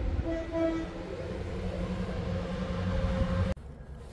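Train running with a steady low engine drone, cutting off suddenly about three and a half seconds in.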